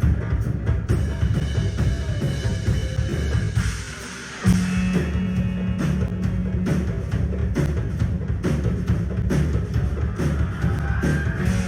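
A live rock band playing loud, with a drum kit hammering out a busy beat on kick and snare. About four seconds in the band drops out briefly, then crashes back in with a held low note under the drums.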